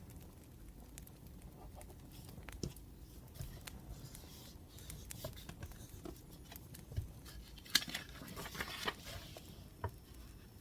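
Faint wood fire crackling in scattered small pops, with a brief denser rustle about eight seconds in.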